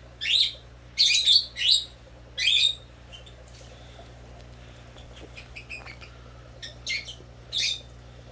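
A small bird chirping in short, high calls: four in quick succession, then after a pause two more near the end, over a steady low hum.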